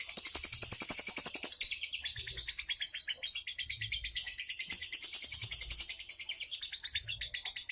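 Pet songbird singing a fast, continuous chattering song of rapid high trills and chirps.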